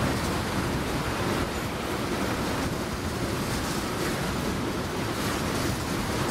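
A train rolling past: a steady rushing noise of steel wheels on the rails, with no horn or clear engine note.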